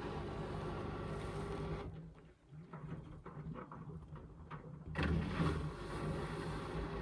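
Indesit washing machine tumbling its drum during a rinse. The motor hum stops about two seconds in, leaving a pause of faint clicks, and starts again about five seconds in, as the drum reverses direction.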